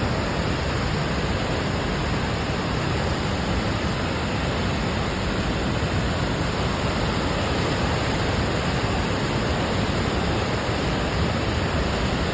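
Waterfall on a river: water pouring and rushing in a steady, even noise.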